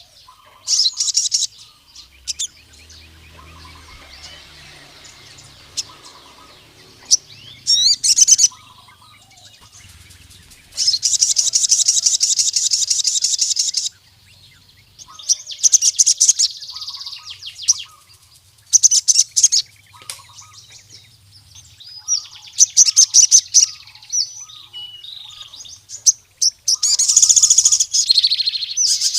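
Male sogon sunbird singing in lively bursts of high, rapid chirps and trills, with a long unbroken trill of about three seconds a little past a third of the way in and another near the end. It is the full song of a bird calling out to rival males.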